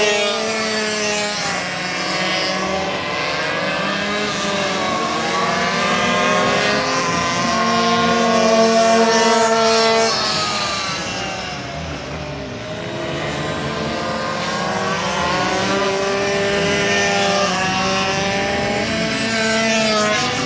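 Several racing minibike engines running at high revs, several engine notes overlapping, their pitch rising and falling as bikes come and go and change speed. The sound drops off a little past halfway, then builds again.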